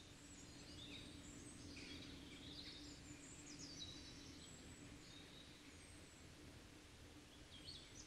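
Faint, scattered high bird chirps and short whistled calls over a very quiet background with a faint low hum.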